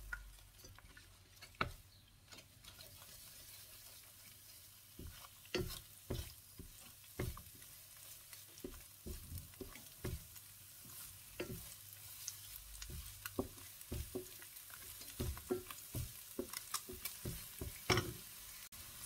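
Egg whites frying in hot oil with a faint steady sizzle, while a wooden spatula scrapes and taps the frying pan, breaking them up; the taps come sparsely at first and more often from about five seconds in.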